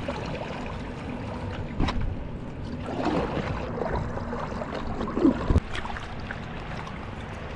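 Ocean water lapping and sloshing against a paddleboard, with a couple of short knocks.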